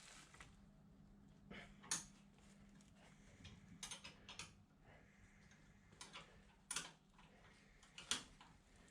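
Scattered light clicks and knocks of hand tools on metal brake parts, about half a dozen, irregularly spaced, over a faint steady hum.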